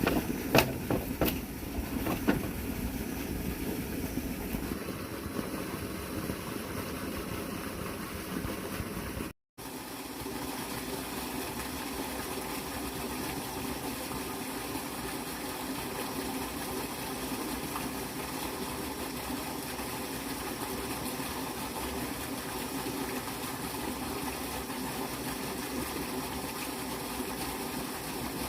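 A small engine running steadily at an even pitch, with a few sharp knocks in the first seconds. The sound drops out briefly about nine seconds in, then the engine resumes.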